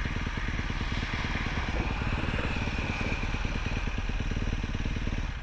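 Honda CRF250 dirt bike's single-cylinder four-stroke engine running at a steady pace, then dropping away sharply near the end.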